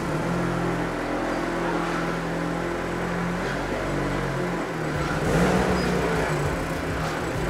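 Ariel Atom's supercharged Chevrolet Cobalt four-cylinder engine running as the car pulls away at low speed, the note swelling briefly about five seconds in.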